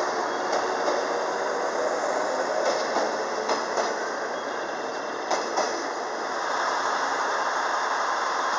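A JR West 117 series electric multiple unit pulling out and running past close by: a steady rush of wheel and running noise, with sharp clicks of the wheels crossing rail joints, some in quick pairs as the axles of a bogie pass over.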